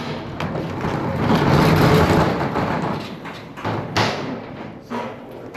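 Metal roll-up storage-unit door being handled: a long rattling rumble of about two seconds, with knocks before and after it.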